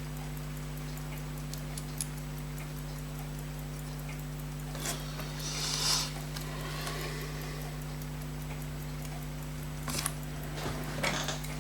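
Faint, rapid, even ticking of a mechanical watch or clock over a steady electrical hum, with a brief rustle around the middle and a few small sharp clicks near the end from tools and parts being handled on the workbench.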